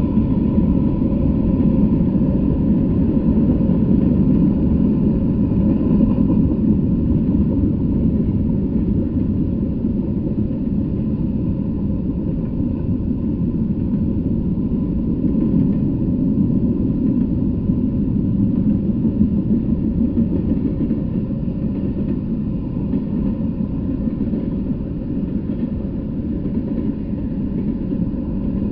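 Intermodal freight train passing: a steady heavy rumble of steel wheels on rails as flatcars carrying semi trailers roll by.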